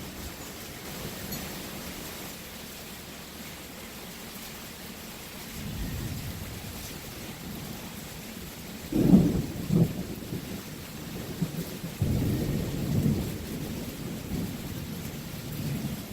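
Steady rain with thunder. Low rumbling builds about five seconds in, two loud cracks come about halfway through, and rolling rumbles follow toward the end.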